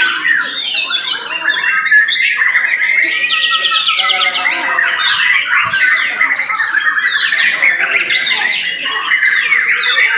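Many caged white-rumped shamas (murai batu) singing at once: a dense, loud, unbroken tangle of overlapping rapid chirps, trills and whistles.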